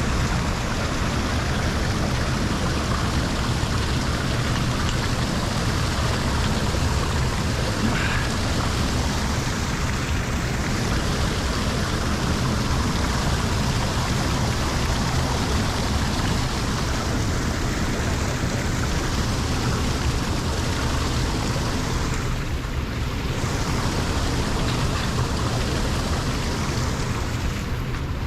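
Lake water pouring steadily into a drain, a continuous rushing noise.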